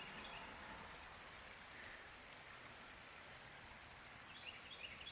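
Insects trilling steadily in one unbroken high-pitched drone, faint, with a few short high chirps near the start and again near the end.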